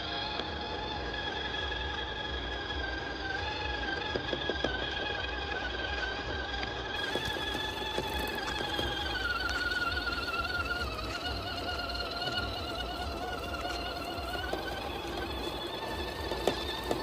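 Electric motor and gearbox of a 1/12-scale RC military truck whining as it drives. The pitch drifts down and back up with speed, and small clicks and knocks sound from the wheels on the ground.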